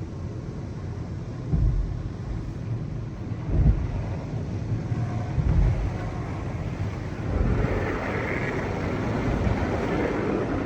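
Tunnel car wash heard from inside the car: a steady low rumble with a heavier thump about every two seconds, and a hiss that builds over the last few seconds.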